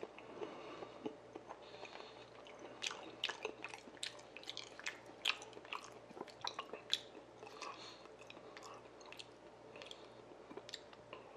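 A person chewing a mouthful of raw salmon sashimi close to the microphone, with many small sharp wet clicks and smacks, thickest in the middle.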